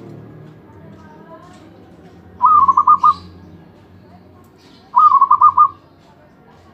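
Zebra dove (perkutut) cooing twice, about two and a half seconds apart: each phrase is a short rising note followed by a quick run of about five clipped coos.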